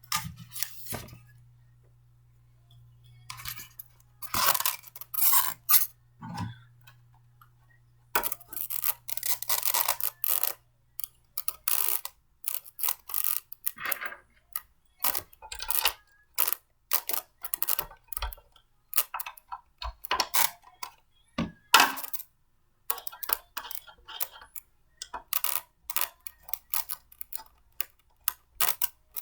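Blender parts being handled and fitted together by hand: a string of irregular clicks, clinks and rattles of hard pieces, sparse at first and busier from about eight seconds in.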